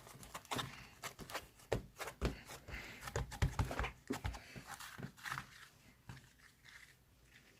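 Irregular crunching and clicking, like something being chewed, close together for the first five seconds and then thinning out.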